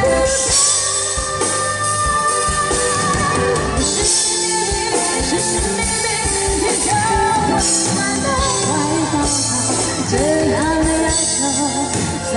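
Live pop-rock band playing, with drum kit and cymbals, guitar and a sung vocal melody.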